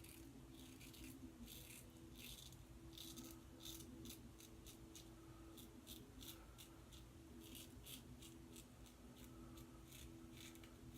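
Faint, short scraping strokes of a Bevel safety razor cutting lathered stubble against the grain, one to three a second, over a steady low hum. The Sputnik blade is dull after three shaves and pulling.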